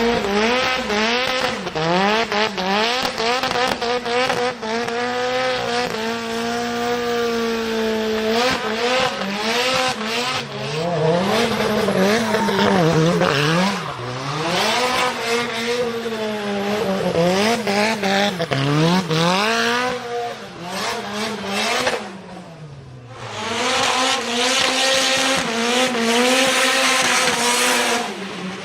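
Drift car engine revving hard and repeatedly up and down on the throttle while its tyres squeal, dropping briefly a little past two-thirds of the way through before picking up again.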